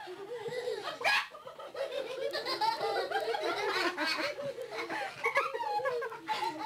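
Several people laughing together, their voices overlapping.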